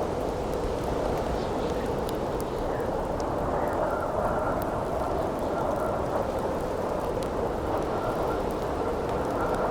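Steady howling wind with a faint whistle that comes and goes, under the small crackles and pops of a burning wood campfire.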